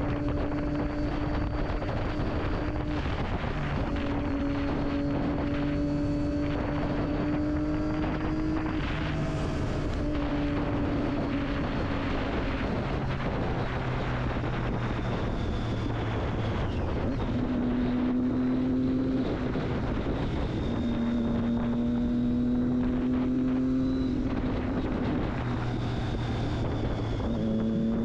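Triumph Daytona 675's inline three-cylinder engine through an Akrapovic exhaust, running at steady cruising revs with wind rushing past. The pitch creeps up slowly and drops back several times as the throttle eases or gears change.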